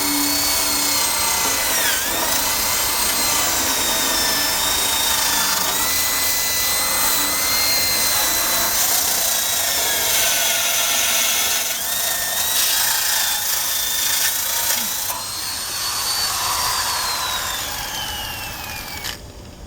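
Power drill spinning a wire brush against the motorcycle's metal frame: a steady motor whine over a scratchy hiss, its pitch dipping when the brush is pressed in. Near the end the trigger is released, and the drill winds down in falling pitch and stops.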